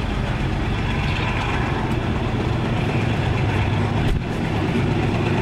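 Steady running noise of a moving passenger train heard from inside the carriage: wheels rumbling on the track over a low drone, dipping briefly about four seconds in.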